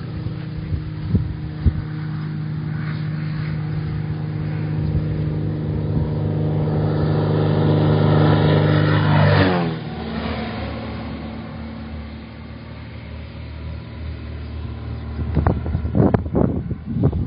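Cessna light aircraft's piston engine being test-run: it runs steadily and builds in power, then is throttled back sharply about halfway through, its pitch falling, and settles to a lower, quieter speed. A few sharp knocks or gusts come near the end.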